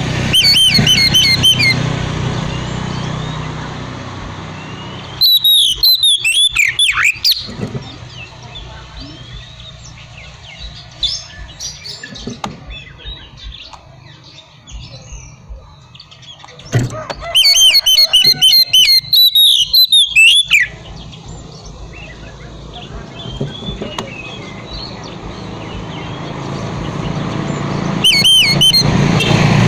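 Oriental magpie-robin (kacer) singing in loud bursts of fast, repeated whistled phrases, four times, with long pauses between that hold fainter chirps.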